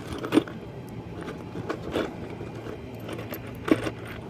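Metal nuts and washers clinking as they are handled and set onto the anchor bolts of a railing post: a few separate clinks, the loudest near the end, over a steady low hum.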